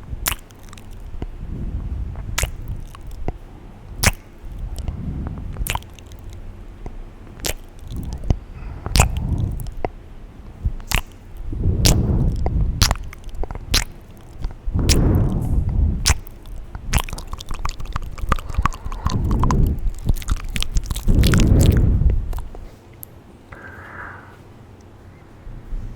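Close-miked ASMR mouth sounds at very high microphone sensitivity: irregular sharp wet clicks and pops of tongue and lips, with swelling low rumbles of a second or two between them.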